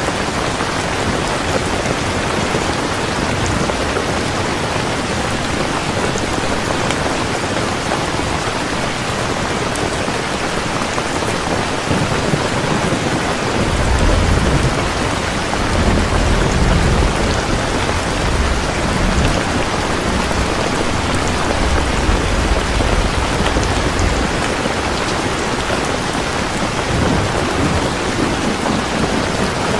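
Heavy rain falling steadily, with a long roll of low thunder rumbling from about halfway through for around ten seconds.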